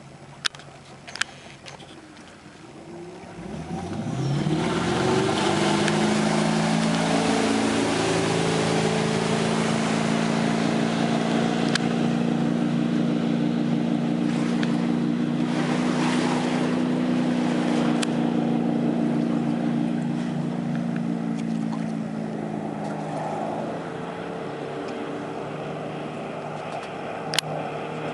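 2001 MasterCraft X-Star's inboard engine accelerating hard, its pitch climbing for a couple of seconds, then running steadily at speed with water and wind noise rushing past the hull. Near the end the engine eases back to a lower, quieter run.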